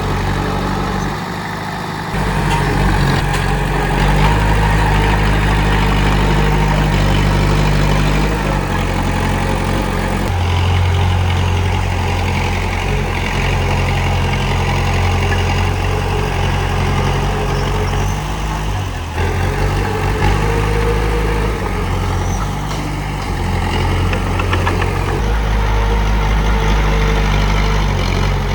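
Komatsu D31P bulldozer's diesel engine running, its low note stepping up and down a few times as the load changes.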